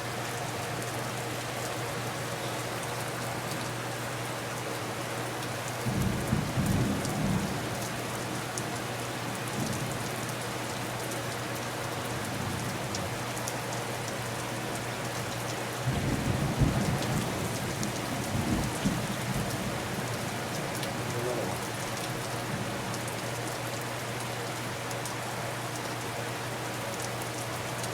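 Steady rain falling throughout, with low thunder rumbling twice: once about six seconds in and again around sixteen seconds, each rumble lasting a couple of seconds.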